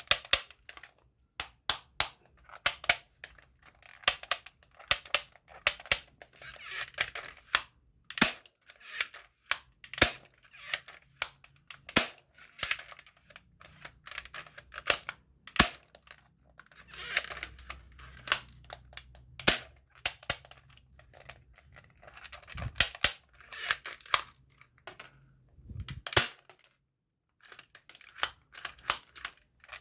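Plastic toy airsoft gun being handled: many irregular sharp clicks and snaps of its parts working or being fitted, with several short spells of rattling and scraping.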